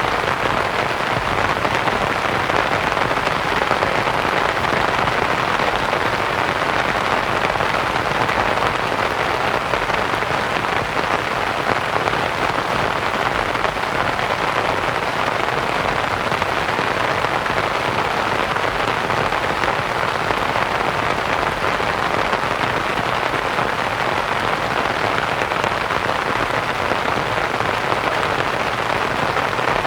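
Steady rain falling on a canvas tent, mixed with soft white noise.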